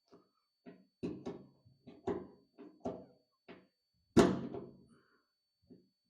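A series of knocks and taps on a sheet-steel replacement fender while the emblem-hole template is checked and marked with an automatic center punch. The loudest and sharpest knock comes about four seconds in, with a short ring after it.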